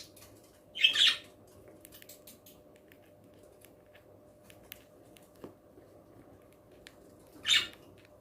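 Baby budgerigars giving short raspy squawks, once about a second in and again near the end, with faint scattered ticks between.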